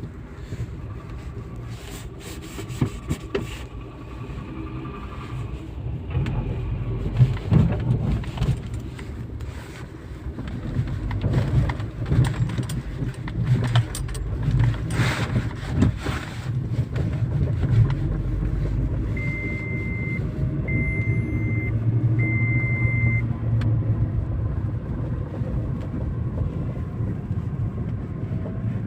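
Car running with a steady low engine and road rumble. About two-thirds of the way through come three evenly spaced electronic beeps at one pitch, each about a second long.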